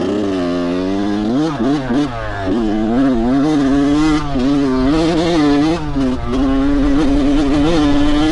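Dirt bike engine being ridden, its note rising and falling several times as the throttle is worked, then holding a steady pitch for the last couple of seconds.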